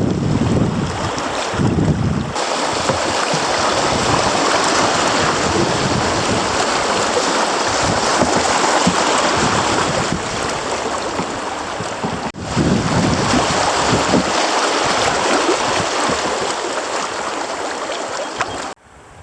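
Steady rushing of creek water, loud and even, broken by an abrupt cut about twelve seconds in and cutting off sharply near the end.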